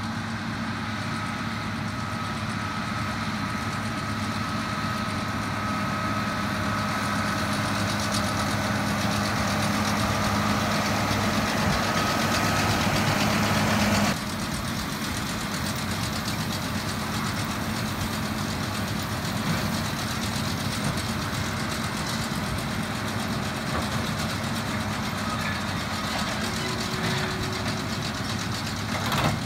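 Tractor engine running steadily, slowly growing louder, then dropping suddenly to a lower level about halfway through.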